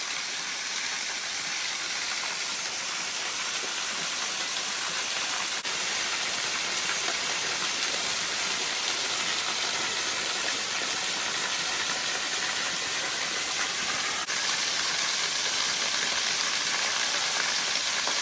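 Small waterfall pouring over rock: a steady, even hissing rush of falling water, with two brief drop-outs in the sound.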